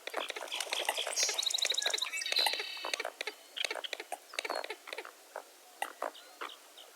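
Dawn chorus of many birds calling at once: dense, rapid chattering clicks and short calls. Two brief high trilled whistles come in the first three seconds, and the chatter grows sparser after that.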